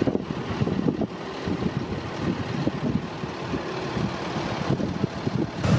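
Low, uneven rumble of heavy vehicles: an Amtrak passenger train of double-deck cars rolling past, mixed with fire engines idling close by.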